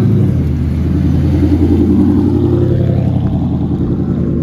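A car engine running loudly, its note rising and falling a little.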